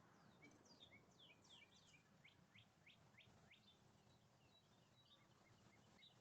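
Distant songbird singing faintly: a run of about a dozen quick falling notes in the first few seconds, then softer scattered chips.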